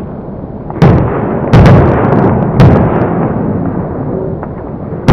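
Fireworks going off: a series of loud, sharp bangs, one a quick double, each trailing off in a rolling echo over a continuous rumble.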